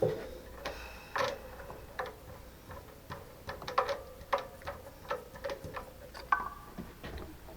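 Irregular sharp clicks and light metallic knocks, about two a second, over a faint steady hum.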